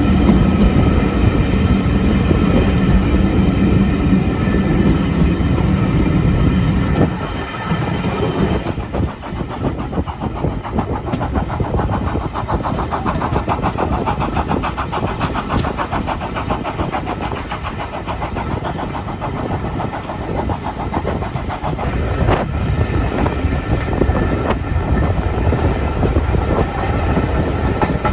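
Heritage railway train running, with a steady low drone that gives way about seven seconds in to a fast, even rhythm.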